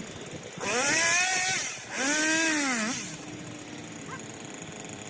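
Chainsaw revved twice, each burst about a second long, rising in pitch and then falling away.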